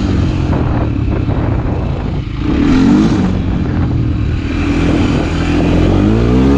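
Motorcycle engine running while riding, with an even rush of wind noise. The engine revs up and drops back about three seconds in, then climbs again near the end.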